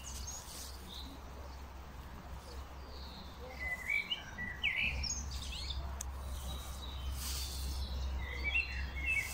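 Wild songbirds chirping, with two short bursts of song, around four seconds in and again near the end, over a steady low rumble.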